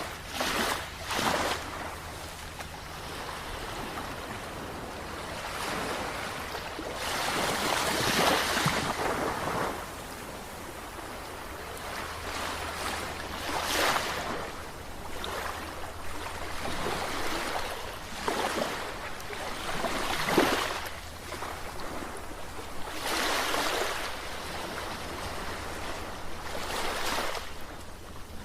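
Sea waves breaking and washing in, a rush of surf that swells and ebbs every few seconds, over a steady low rumble.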